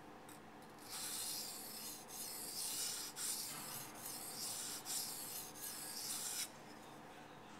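Steel blade of a Les George VECP folding knife scraping across a wet waterstone in sharpening strokes, refining the scratch pattern on the bevel. A steady gritty rasp starts about a second in, dips briefly a few times as the strokes change, and stops abruptly near the end.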